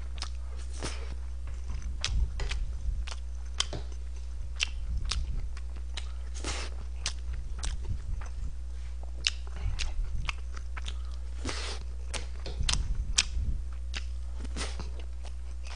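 A person chewing and biting mouthfuls of Korean-Chinese takeout food close to the microphone, with irregular crunchy clicks, over a steady low hum.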